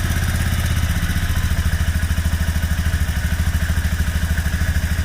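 Kymco's small single engine idling steadily just after starting, with an even rapid pulse. No fuel-pump screaming is heard over it after the pump was taken out, shaken and refitted.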